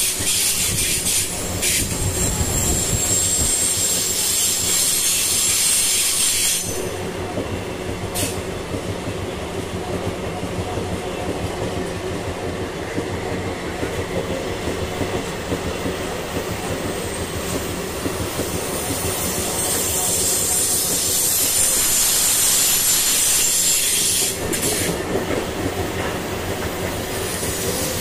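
MRS freight train wagons rolling past, wheels running on the rails with a high-pitched squeal for the first six seconds or so that comes back over the last several seconds.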